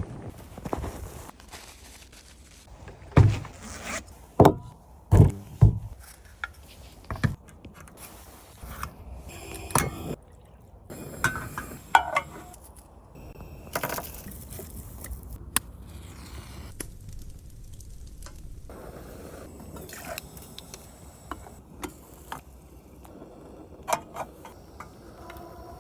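Scrapes, knocks and clinks of camp gear being handled, with a run of loud thuds a few seconds in.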